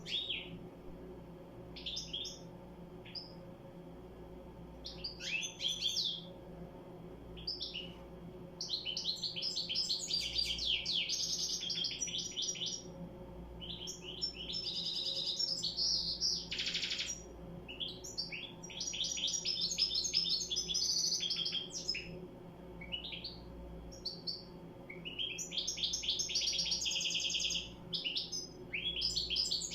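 European goldfinch singing: rapid high twittering phrases of a few seconds each, broken by short pauses, over a faint steady low hum.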